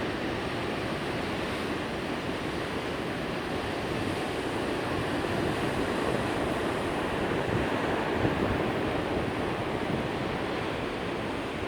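Ocean waves, a continuous rushing surf that builds a little toward the middle and eases near the end.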